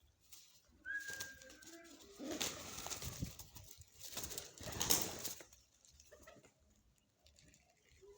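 Pigeons cooing, with a brief high whistle about a second in and two rustling flurries of about a second each near the middle.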